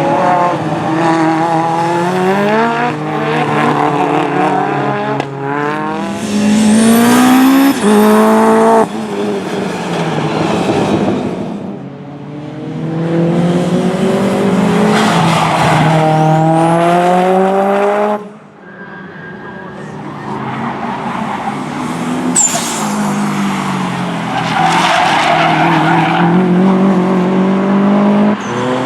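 Time-attack race cars on track, their engines revving hard and rising in pitch through the gears, then dropping as they lift off, with some tyre squeal. The sound cuts abruptly twice, about a third and two thirds of the way through, as the footage jumps between cars.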